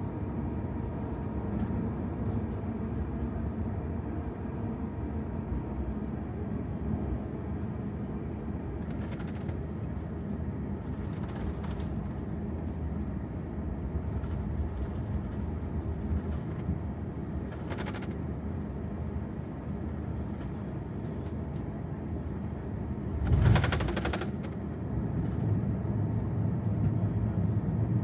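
Airbus A350 cabin while taxiing: a steady low rumble of engines and rolling wheels, with a few short knocks and one louder thump about 23 seconds in. The rumble grows louder near the end.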